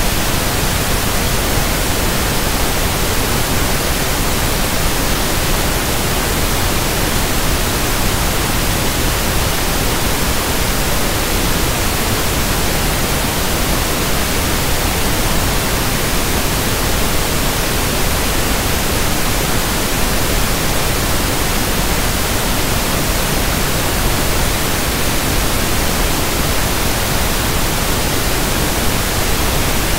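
Steady synthesized pink noise (1/f noise): an even, unchanging hiss spread across all pitches.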